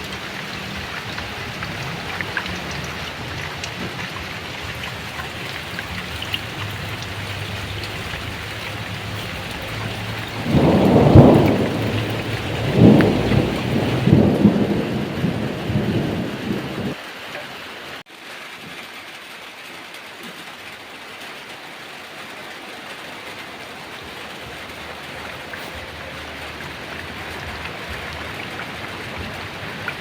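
Heavy rain falling steadily, with a loud roll of thunder about a third of the way in that lasts several seconds in two swells. Just past the middle the sound cuts abruptly and the rain carries on as a quieter, thinner hiss.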